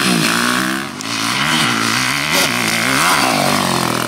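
Motocross bike engine revving up and down repeatedly as the throttle is opened and closed, the pitch rising and falling several times.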